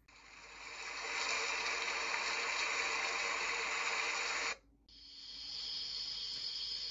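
Baby white-noise machine playing two steady noise tracks in turn. A broad hiss fades in and cuts off about four and a half seconds in, then after a short gap a thinner, higher-pitched hiss.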